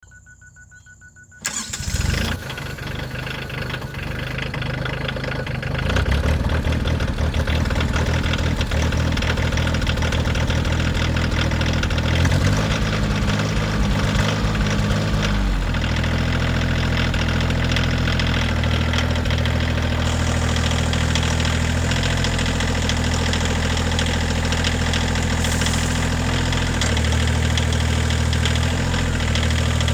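Kioti CX2510 compact tractor's three-cylinder diesel engine cranking and starting about a second and a half in, running unevenly for a few seconds, then settling into a steady run. Its speed shifts briefly around the middle before it runs steady again.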